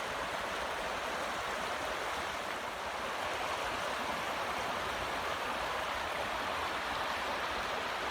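Steady rush of a flowing creek, the Furnace Run stream, running on without a break.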